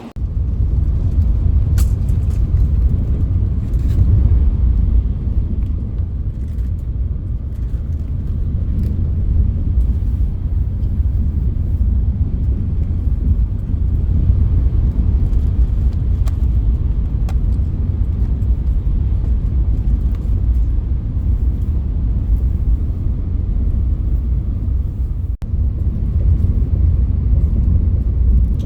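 Train running, a loud steady low rumble.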